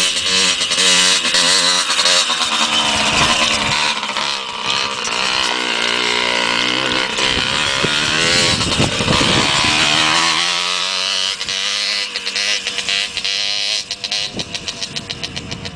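Motocross bike engine running and revving, its pitch rising and falling repeatedly; from about eleven seconds in it settles to a lower, pulsing note.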